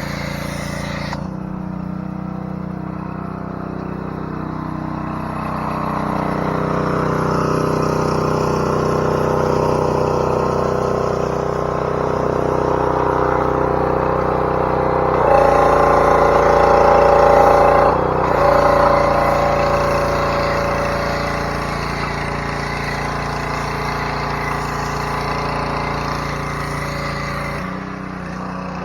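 Small gasoline engine of a pressure washer running steadily. It grows louder with a stronger, higher note for a few seconds past the middle, briefly dipping before it settles back.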